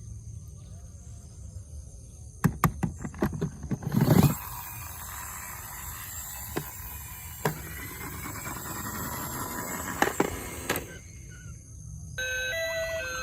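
Scattered clicks and knocks, a quick cluster of them about three to four seconds in and a few single ones later. Near the end, a toy emergency vehicle's electronic siren starts: two alternating pitches with a falling tone over them.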